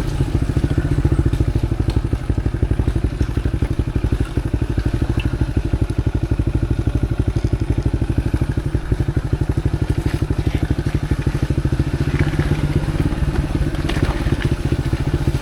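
Motorcycle engine running at low, steady revs with an even pulsing beat, the bike picking its way along a muddy trail.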